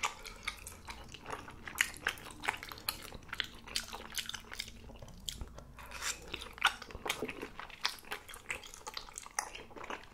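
A person chewing and eating malatang of Chinese glass noodles and chewy bunmoja (sweet potato starch balls). The mouth sounds come as a steady stream of small, irregular clicks and smacks, a few each second.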